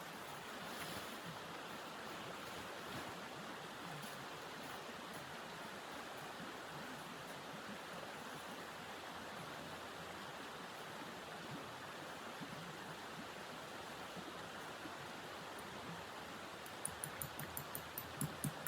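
Steady rushing noise of snowstorm wind. Near the end comes a quick run of crisp crunching clicks, several a second.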